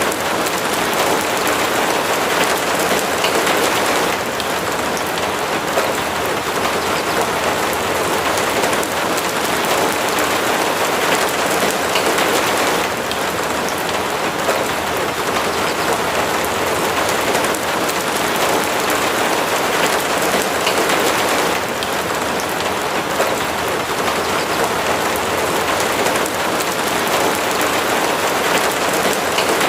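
Steady rain falling, a dense even patter that eases slightly for a moment now and then.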